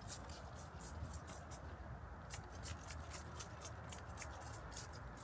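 Quick rhythmic brushing or scrubbing strokes, about three a second, pausing briefly about two seconds in, over a low steady rumble.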